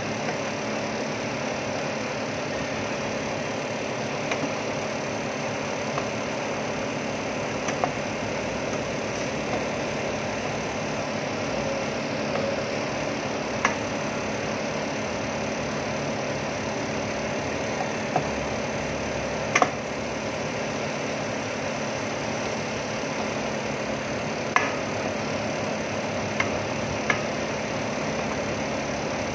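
Pork intestines frying in a stainless steel wok, stirred with a wooden spatula that knocks sharply against the pan now and then, over a steady hum.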